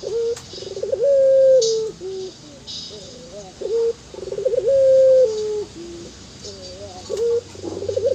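Barbary dove (burung puter) cooing its rolling 'anggungan' call: each phrase opens with a quick rolling stutter and runs into a long held coo that steps down in pitch. Two full phrases repeat about three and a half seconds apart, and a third starts near the end.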